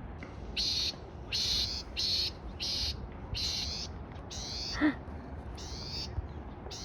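A small songbird, taken for a large wren, calling over and over: short high-pitched rattling calls, each a quick run of falling notes, about one every three quarters of a second. A brief lower falling note sounds once just before five seconds in.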